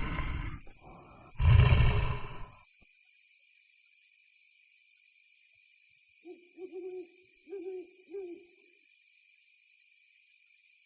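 Two loud, rough bursts of animal noise in the first couple of seconds, then a quiet spell, then four short hooting calls a little past the middle.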